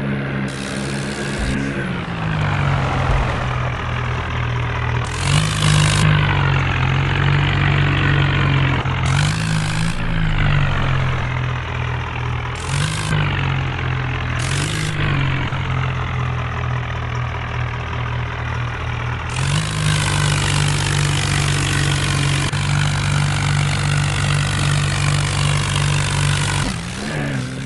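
Tractor diesel engine running, revved up briefly about four times, then held at higher revs for several seconds before dropping back near the end.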